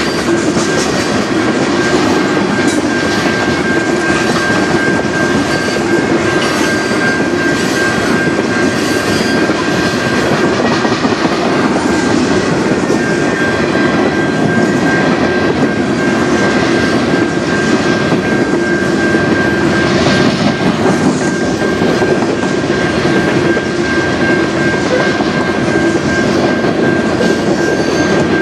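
Freight cars of a manifest train rolling steadily past a level crossing, wheels clacking over the rail joints, with a steady high ringing tone from the crossing's warning bell that drops out briefly a little under halfway through.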